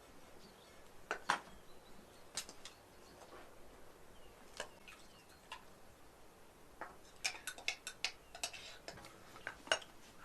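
Cutlery clinking and tapping against dishes: scattered sharp light clicks, sparse at first and coming thick and fast for a few seconds near the end.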